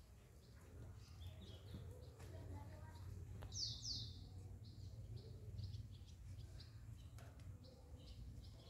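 Birds chirping faintly in short high calls, with two louder downward-sweeping chirps about halfway through, over a low steady rumble.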